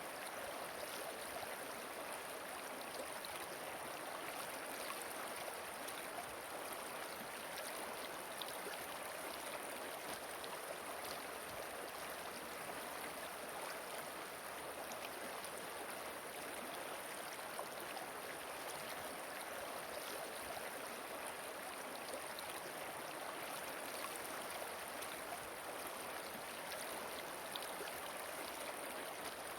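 Running water flowing steadily, an even continuous rush with faint scattered splashes.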